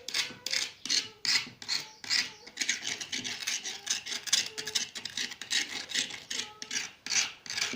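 Repeated rasping, scraping strokes at an even pace of about two to three a second, like something being rubbed or scraped by hand.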